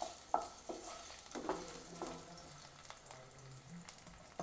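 Cubed potatoes frying in shallow oil in a pan, a light steady sizzle, with a few quick strokes of a spatula stirring them in the first half.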